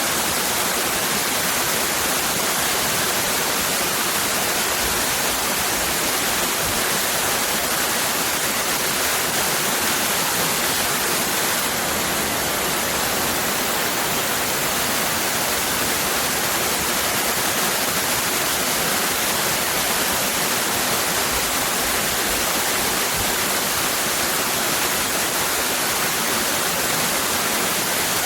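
Waterfall cascading: a steady, even rush of falling water with no breaks.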